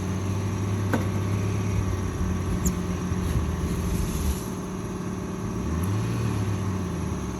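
Engine running steadily, its pitch and level dipping a little past the middle and then rising back.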